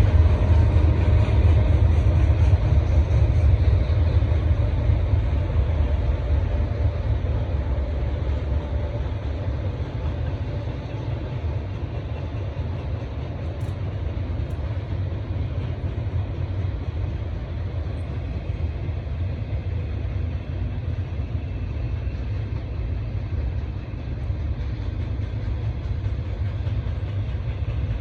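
Train rolling past with a steady low rumble that eases off a little after the first several seconds, a few faint steady tones heard near the start.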